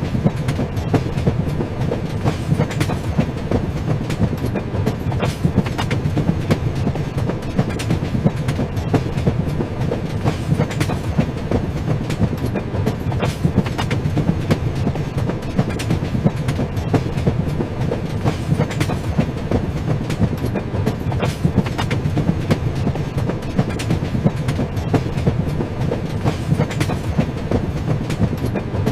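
A train running along the track: a continuous low rumble with the clickety-clack of the wheels over the rail joints.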